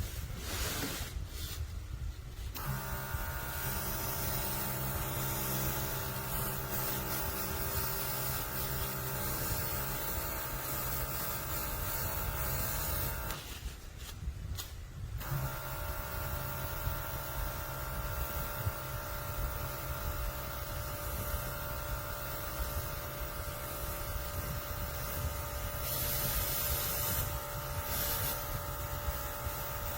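Small airbrush compressor motor running steadily with air hissing out, cutting out for about two seconds near the middle and then starting again.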